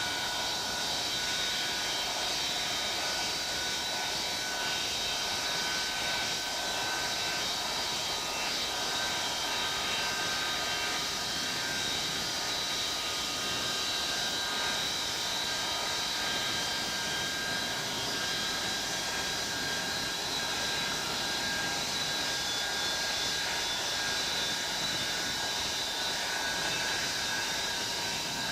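Avro Vulcan B2's Bristol Olympus turbojet engines running steadily on the ground: a broad jet rush with a high compressor whine held at constant power.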